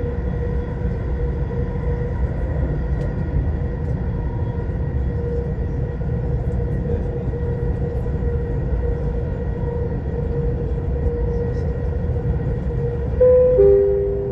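Dubai Metro train running, heard from inside the carriage: a steady low rumble under a steady motor whine. Near the end a two-note falling chime sounds, the signal that comes before an onboard station announcement.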